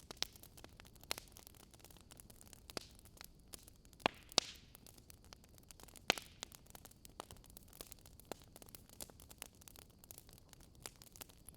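Wood fire crackling: irregular sharp pops and snaps over a faint steady hiss, a few louder pops about four and six seconds in.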